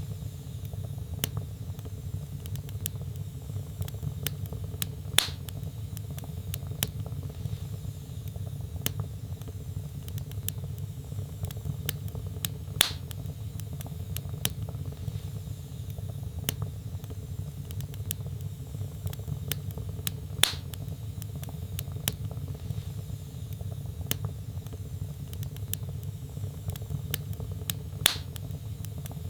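Wood fire burning in a fireplace, crackling: frequent small crackles over a low steady rumble, with four louder pops spaced about eight seconds apart.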